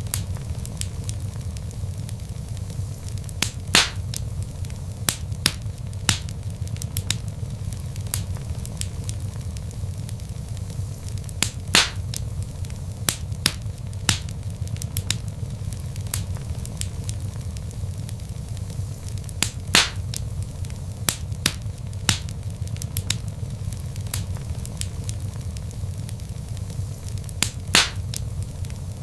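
Wood log fire crackling, with a steady low rumble of flames under frequent sharp snaps and four louder pops about eight seconds apart.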